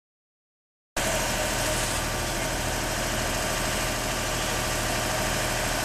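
Silence, then about a second in a steady engine idling, with the even hiss of street noise around it.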